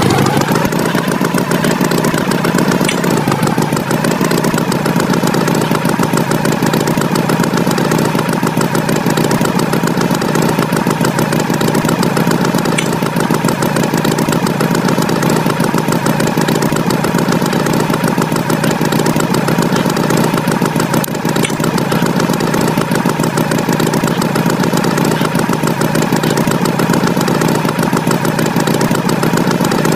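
Tractor engine running steadily, an even mechanical drone with a fast, regular pulse that stays unchanged throughout.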